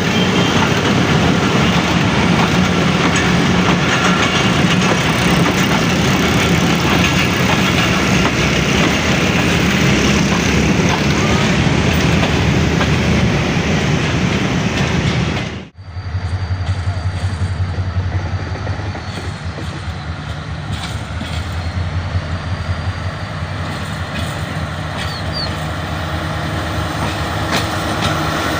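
Train running past, a loud steady rumble of wheels and engine. A little past halfway it cuts off abruptly, and a quieter train sound follows with a steady low hum.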